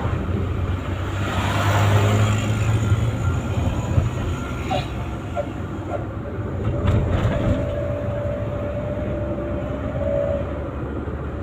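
A vehicle engine droning steadily through its exhaust. A steady higher tone sounds over it from about seven to ten seconds in.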